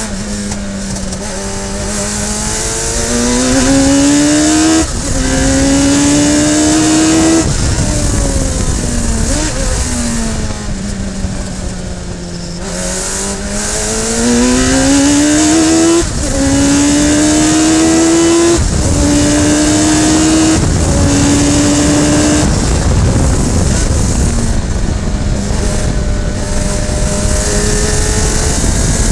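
Radical SR3 sports-racing car engine at racing speed. Its pitch climbs, then drops sharply at each quick upshift. It falls away for a long stretch in the middle as the car slows, then climbs again through several more upshifts.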